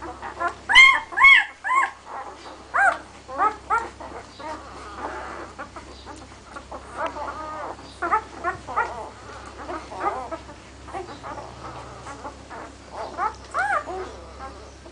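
Six-day-old puppies squealing and whimpering, many short high calls one after another and overlapping, loudest about a second in and again near the end.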